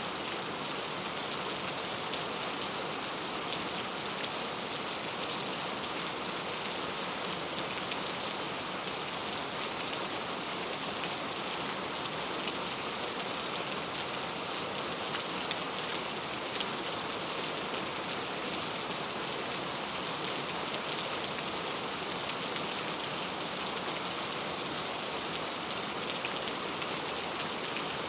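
Steady rain falling, a dense even patter of drops on a surface with fine scattered drop ticks.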